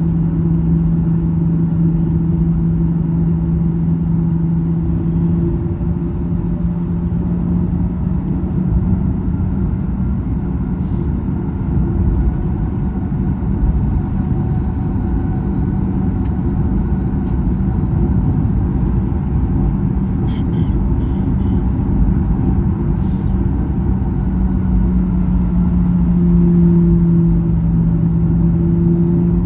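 Cabin noise of a Boeing 737-800: a steady rumble with a low engine hum that shifts slightly in pitch about five seconds in and again near the end.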